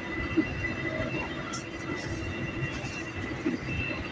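Cabin noise of a moving passenger train: the steady rumble and rattle of the carriage running on the track, with a faint steady high whine over it.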